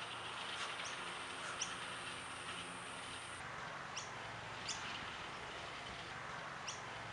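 Birds chirping: a handful of short, high chirps, several of them falling quickly in pitch, over a steady faint background hiss.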